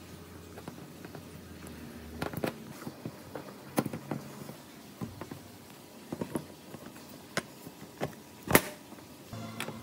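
Scattered clicks and knocks of a chainsaw's aluminium cylinder and crankcase assembly being handled and set down on a metal workbench, then fitted into the chainsaw's red engine housing; the loudest knock comes near the end.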